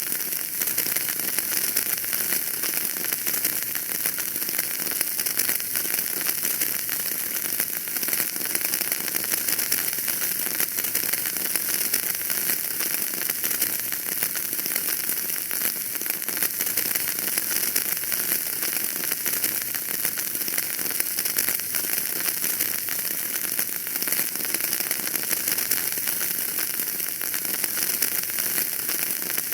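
Fire burning in a fireplace, a steady, dense crackle of small pops over a hiss.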